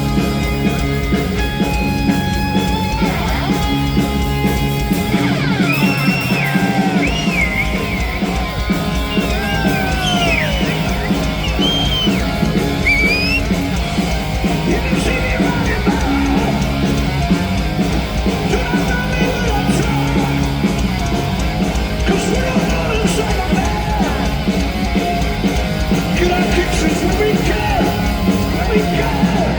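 Heavy metal band playing live and loud: distorted electric guitars over bass and drums, with bending lead lines in the middle of the passage.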